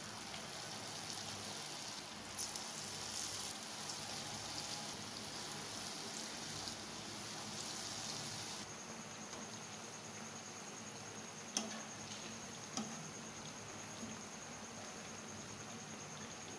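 Potato tikkis frying in hot oil in a pan, a steady sizzle and bubbling of the oil, with two light clicks in the second half.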